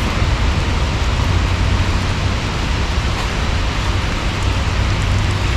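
Steady rain falling, an even hiss, with a constant low rumble underneath.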